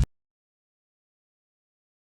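Near silence: the intro music cuts off right at the start, leaving a dead-silent track with no room tone.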